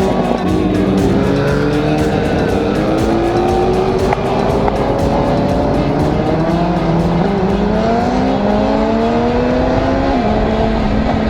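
Motorcycle engine pulling hard under acceleration, its pitch climbing steadily for several seconds and dropping sharply about ten seconds in, as at a gear change or roll-off, with music underneath.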